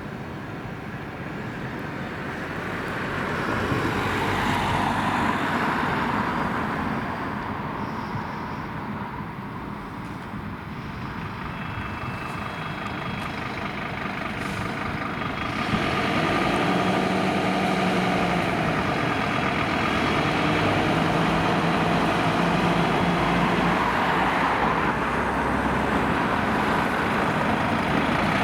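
Road vehicles passing, then about halfway through a heavy diesel truck engine starts running close by and steadily, likely the Scania P270 rescue pump's engine.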